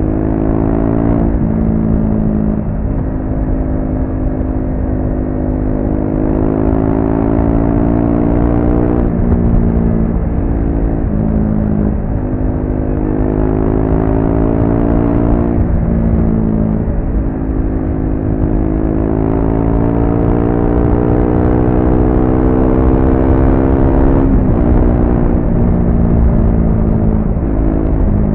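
Triumph Speed 400's single-cylinder engine running under way through its stock exhaust. The engine note climbs steadily, then drops sharply and climbs again, three times over.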